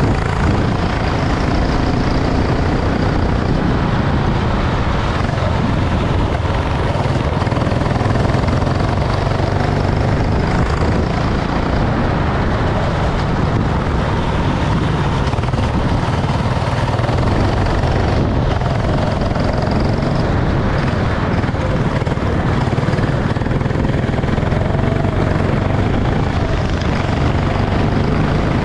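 Go-kart engine running steadily under a constant noisy hiss, with no sharp changes in speed.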